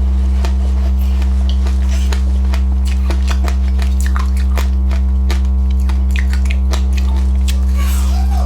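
Close-up chewing of crunchy passionfruit pulp and seeds: irregular sharp crunches and clicks, several a second, over a loud steady electrical hum in the recording.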